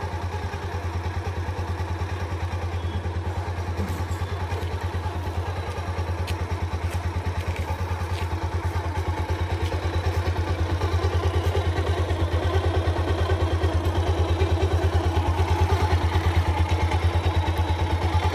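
Bajaj Pulsar first-generation single-cylinder four-stroke engine idling steadily with an even, fast beat, cold, just after starting on the first kick after a month unused. The idle gets a little louder about ten seconds in.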